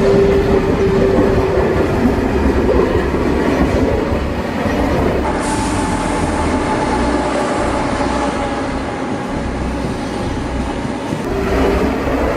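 Train running along the track: a steady rumble with a faint held tone, the sound changing abruptly twice, about five seconds in and again near the end.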